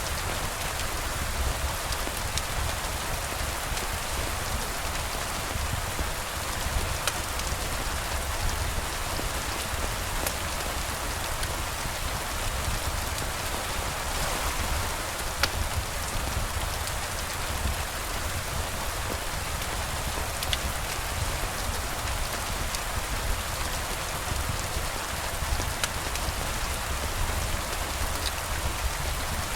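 Steady rain falling: an even hiss with scattered light ticks of single drops.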